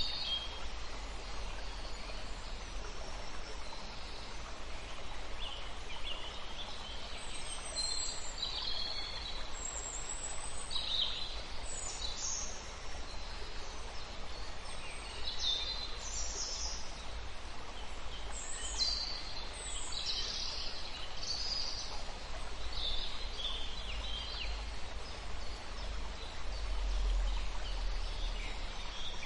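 Birds chirping in short scattered calls over a steady outdoor background hiss, with a low rumble underneath.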